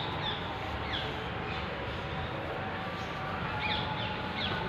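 Birds chirping in short, falling calls, a few at a time and more toward the end, over a steady background hiss.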